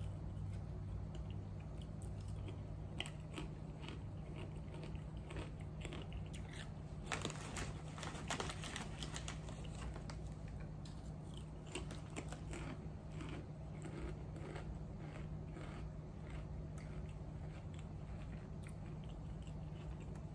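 A person chewing and crunching Ruffles Ridge Twist potato chips, with irregular crisp crunches that come thickest a few seconds past the middle. A steady low hum runs underneath.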